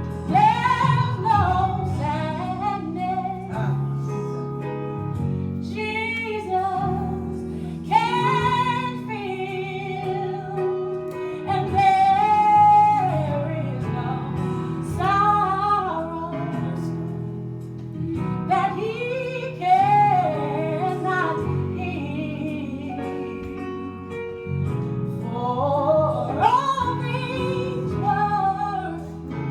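A woman singing a gospel song in long, sliding phrases with vibrato over a steady instrumental accompaniment.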